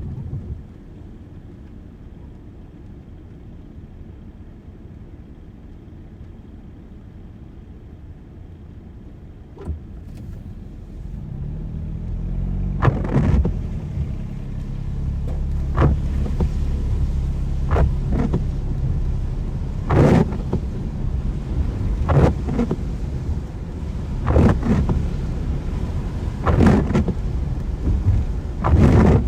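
Car in the rain heard from inside: a low, quiet rumble while the car stands for about ten seconds, then engine and tyre noise building as it pulls away. From then on the windscreen wipers sweep about every two seconds.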